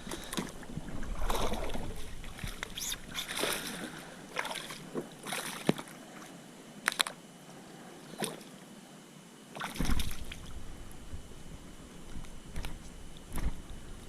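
Water splashing and sloshing around a kayak, with scattered knocks and clicks against the hull.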